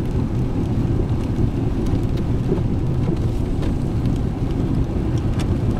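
Steady low rumble of a four-wheel-drive pickup truck driving at slow speed, heard inside the cab: road and engine noise.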